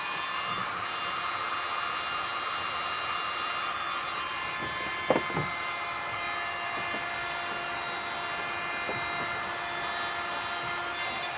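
Electric heat gun running steadily, heating a plastic rib strip for bending, with a few short knocks, the loudest about five seconds in.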